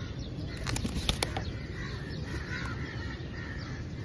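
Parrot bathing: a few quick splashing wing-flutters about a second in, with short bird calls over a steady low background rumble.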